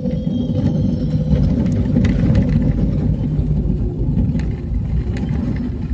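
A vehicle driving on a rough road: a steady low rumble of engine and road noise that grows louder at the start, with scattered knocks and rattles.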